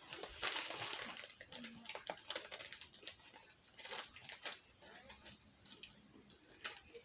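Plastic snack wrapper rustling and crinkling, with scattered crackles that thin out after the first second or so.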